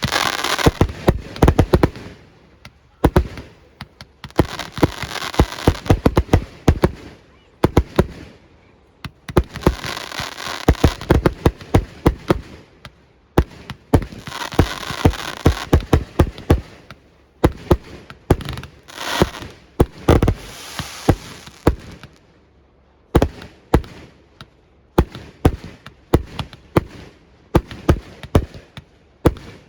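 Fireworks display: a rapid, irregular run of sharp bangs from bursting shells, with several stretches of crackling hiss a few seconds long among them.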